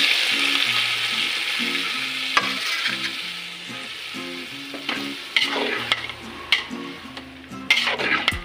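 Marinated chicken sizzling as it hits hot oil and golden fried onions in a metal pot. The sizzle is loud at first and steadily dies down, while a metal fork stirring the pot clicks and scrapes against it several times in the second half.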